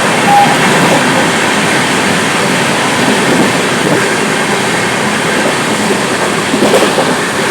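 Train running on the track: a steady, loud rumble and rattle of wheels and coaches.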